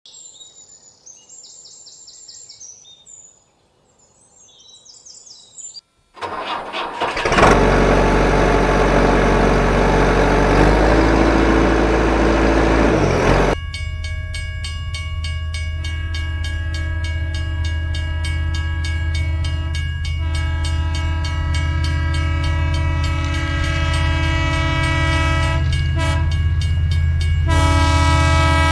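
Faint high chirps, then about six seconds in a vehicle engine starts with a loud rough rush. Past the middle it settles into a steady running drone with a strong, even pitch.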